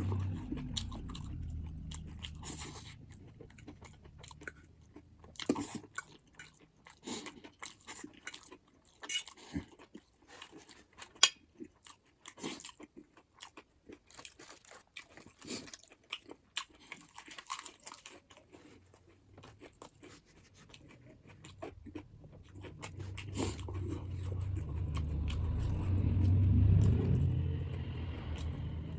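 Close-up eating sounds of buffalo bone marrow and noodles: wet chewing and biting with many sharp clicks and crunches. A louder low swell builds up over the last few seconds.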